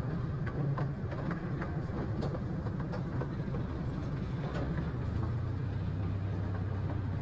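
Miniature tour train running, heard from on board: a steady low rumble with scattered clicks and rattles, and a steadier low hum setting in about five seconds in.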